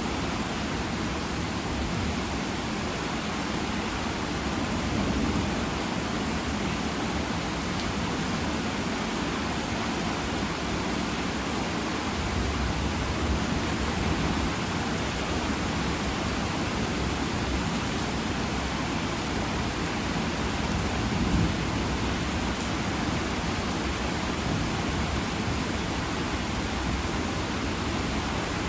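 Steady heavy rain with no break, and a low rumble that comes up partway through.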